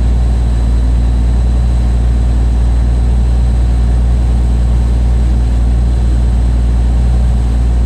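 Cummins N14 inline-six diesel of a 1993 Kenworth W900L idling through 6-inch straight pipes: a loud, steady, low exhaust note with no revving.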